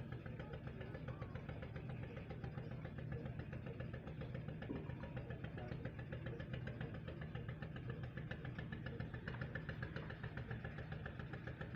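An engine idling steadily, a low hum with a fast, even pulse.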